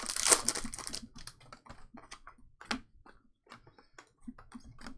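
Trading cards being handled and flipped through by hand: a short rustle in the first second, then a run of light, irregular clicks and ticks as cards are moved from one to the next.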